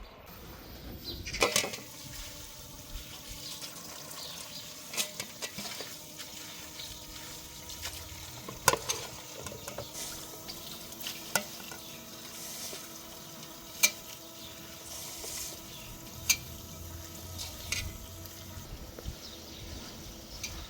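Cooking sounds: a utensil clinking against a pot every few seconds over a steady low hiss of food cooking.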